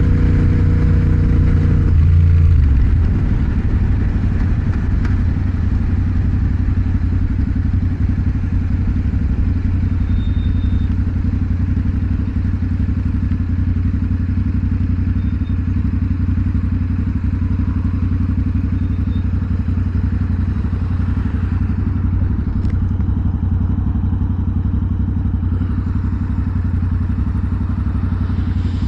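Motorcycle engine heard from the rider's seat on the move. A clear pitched engine note changes about two seconds in, then settles into a steady low rumble at cruising speed.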